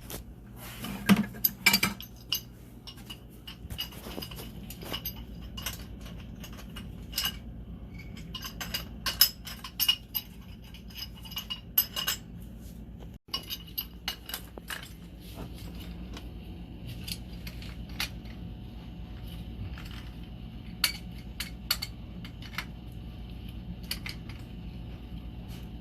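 Metal tools and pipe fittings clinking and tapping at irregular intervals during plumbing work, over a low steady hum.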